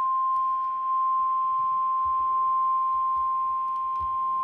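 NOAA Weather Radio warning alarm tone: a single steady, high beep held unbroken at one pitch. It signals that a weather warning broadcast is about to follow.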